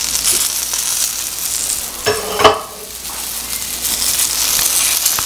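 Chicken pieces sizzling as they fry in hot oil in a pan, a steady hiss, with one sharp knock about two and a half seconds in.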